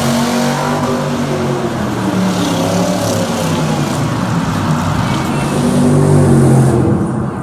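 Loud vehicle engine running and revving, its pitch rising and falling over a few seconds.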